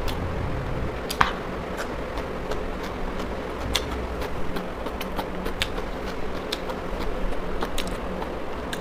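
A person chewing raw cabbage salad close to a clip-on microphone: scattered crisp crunches and mouth clicks, spaced irregularly, over a steady background hum.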